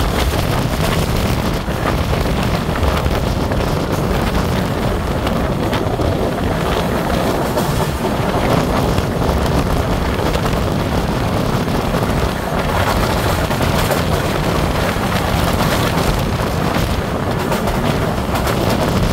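Passenger train in motion heard from an open window: steady running noise of the coaches on the rails, with wind buffeting the microphone.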